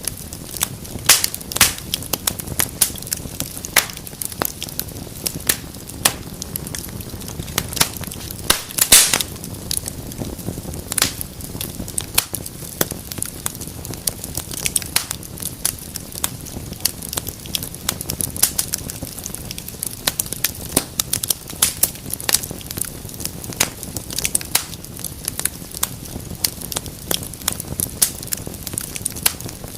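Wood fire burning in a fireplace: steady irregular crackling and popping over a low rumble of flame, with a sharper pop about nine seconds in.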